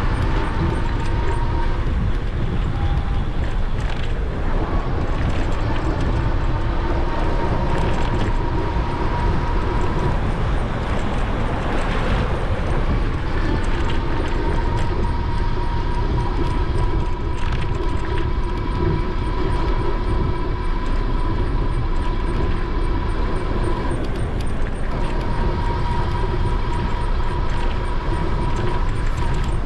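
Wind rumbling on the microphone of a moving e-bike, with a steady electric-motor whine that cuts out twice and comes back.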